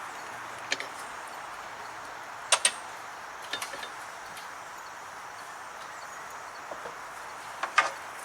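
A few short, sharp clinks and knocks, some in quick pairs, over a steady background hiss.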